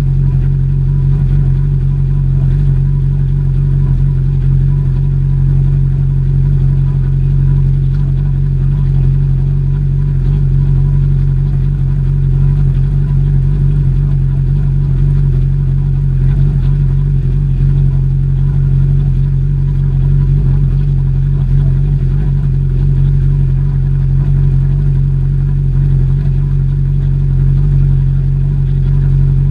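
A motor or engine running at a steady speed, giving a loud, unchanging drone.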